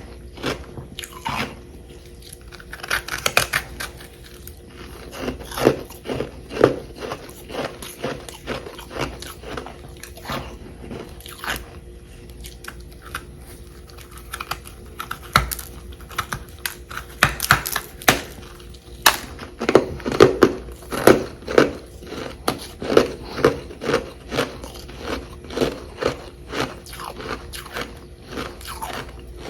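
Close-up crunching and chewing of chunks of frozen humidifier frost, with a few sharp bites and a run of quick, regular chews in the second half.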